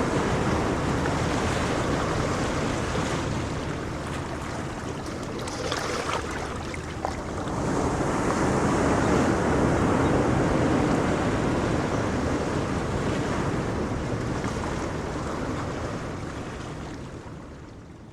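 Ocean waves breaking and washing on a shore in a steady rush. The surf eases a few seconds in, builds again in the middle, then fades away near the end.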